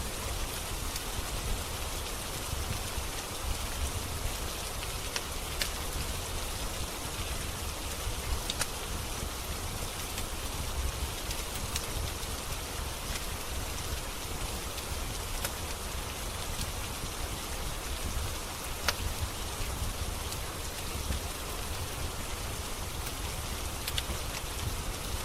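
Steady rain falling, an even hiss with a low rumble underneath. A wood fire in a fireplace gives a sharp crackle now and then, every few seconds.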